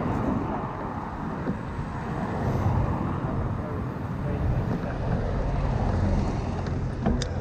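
Wind rumbling on the microphone of a moving bicycle over steady street traffic noise, heaviest in the middle, with a short sharp click near the end.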